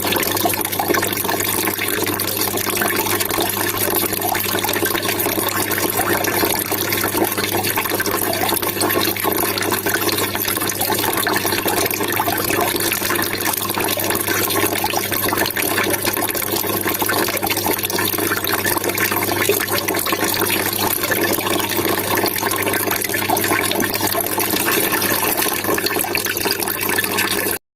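Water trickling and splashing steadily, cutting off suddenly near the end.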